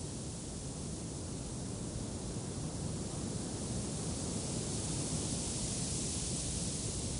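Steady wind blowing: a low rumble under a broad hiss that swells slightly in the second half.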